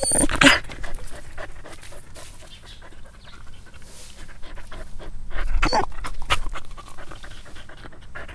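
A dog panting in quick, noisy breaths, several a second, with a few louder breaths just after the start and again about six seconds in.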